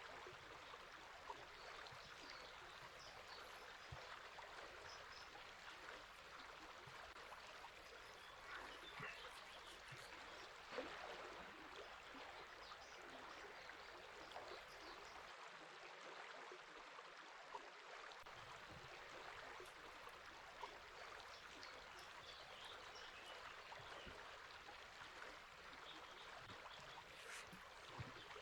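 A river flowing steadily, a faint even rush of water, with a few scattered, faint bird chirps.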